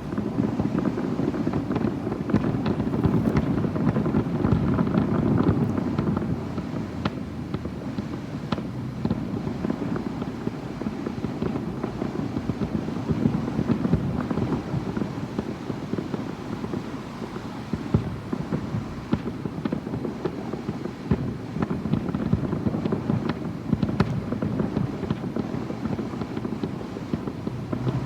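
Fireworks going off in quick succession: a continuous rumble of many overlapping bangs and crackles.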